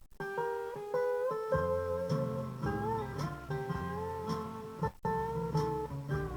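Guitar playing the opening instrumental lines of a song, single plucked notes one after another with a couple of sliding notes.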